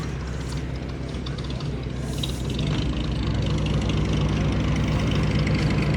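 Car engine running at idle, a steady low hum that grows louder from about halfway through.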